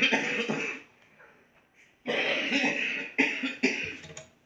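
A person coughing in two bouts: one short fit at the start, then a longer run of several coughs from about two seconds in.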